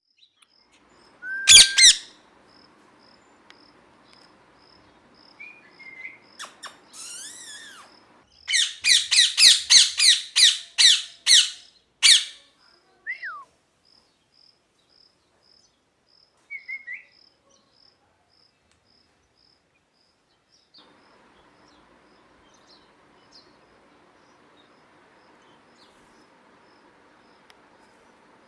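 Indian ringneck parakeet calling: one loud shrill screech, a few soft chirps, then a run of about ten sharp, shrill calls in quick succession, followed by a couple of short chirps. The second half is nearly free of calls.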